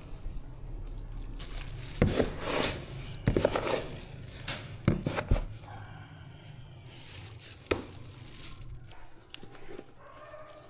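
A run of sharp knocks and clicks with crinkling and rustling, about seven in the middle few seconds and one more later, like things being handled and set down.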